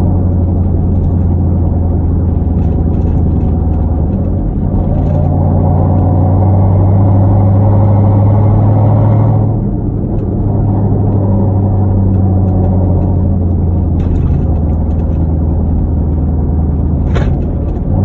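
Hyundai Genesis 5.0 V8, straight-piped with Flowmaster Super 10 mufflers and no catalytic converters, running with a steady deep exhaust drone while driving. It builds a little and then drops back about nine and a half seconds in, with a brief click near the end.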